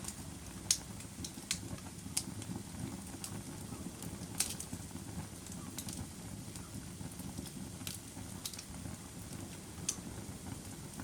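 Wood fire burning in a fireplace, with irregular sharp crackles and pops over a steady low rumble of flame.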